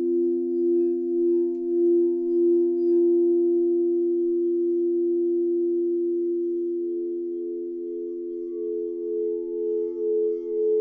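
Singing bowls sounding as a steady drone of two low, sustained tones. A higher tone swells in about halfway through, wavering in volume about twice a second.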